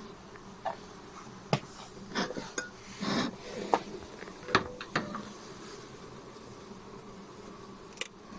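Honeybees buzzing steadily at an opened hive, broken by a series of sharp knocks, clicks and short scrapes as the hive is worked, most of them in the first five seconds and one more near the end.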